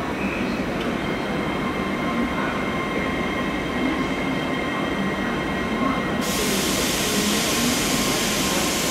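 Train running over the rails: a steady rumble of wheels on track with thin, steady high squealing tones from the wheels. About six seconds in, a bright hiss joins suddenly and continues.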